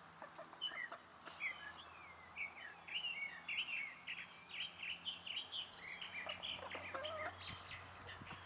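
Birds chirping and twittering in many quick, overlapping calls, with a faint steady insect trill beneath.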